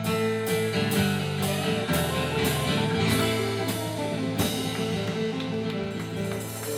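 Live band playing an instrumental passage: guitars holding notes over a drum kit keeping a steady beat.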